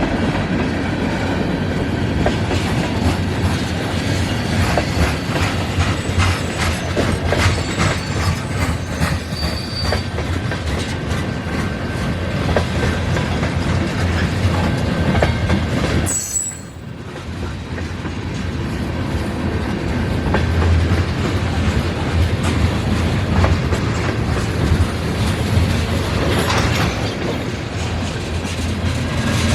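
Freight cars of a mixed freight train rolling past, wheels clacking over rail joints, with occasional thin wheel squeal. The sound is steady and loud, dipping briefly a little past halfway.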